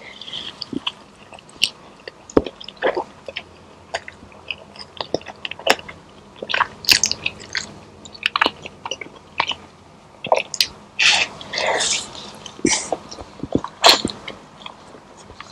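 A person chewing food with wet mouth smacks and clicks at an irregular pace, with a denser, noisier stretch about three quarters of the way through.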